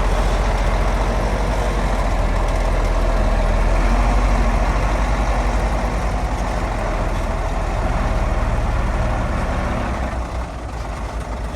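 Heavy earthmoving machine's diesel engine running steadily with a deep low pulse, dropping slightly in level about ten seconds in.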